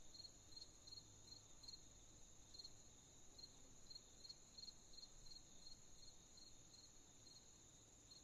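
Faint night chorus of crickets chirping: a steady high-pitched trill, with a second set of short chirps repeating about two to three times a second.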